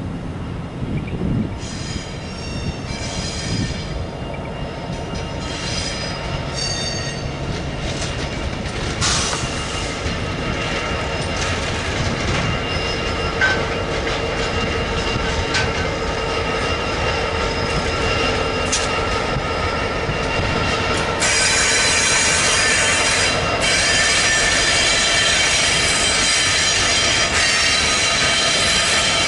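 Freight train passing: a diesel locomotive goes by, then its wagons roll past with high-pitched wheel squeal. The sound builds steadily and is loudest from about two-thirds of the way through, when the squeal is strongest.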